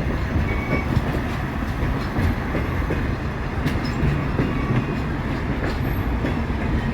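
Passenger train coach rolling along the track, a steady low rumble with a few sharp clicks from the wheels passing over the rails.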